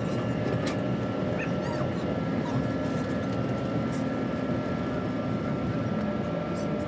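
Passenger train running at speed, heard from inside the carriage: a steady rumble of wheels on rails with a constant thin high whine.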